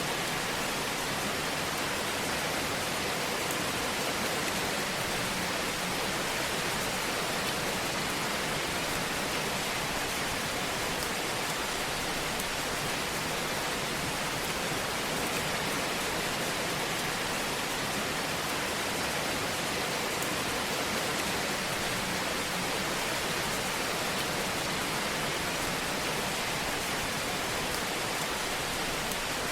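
Fire in a fireplace burning with a steady, even hiss and gentle crackle.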